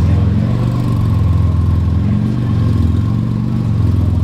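Combustion engine idling close by: a steady low rumble that wavers slightly.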